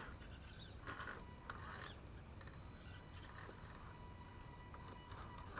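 Faint frog calls, a few short croaks, over a faint steady high whine.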